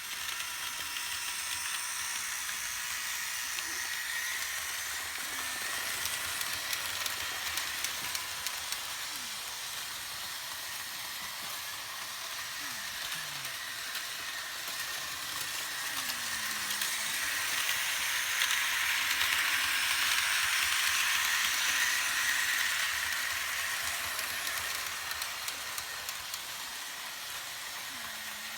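Märklin H0 model diesel locomotive with its train running on metal M-track: a steady rolling hiss of wheels and motor. It swells louder for several seconds after the middle, then eases off.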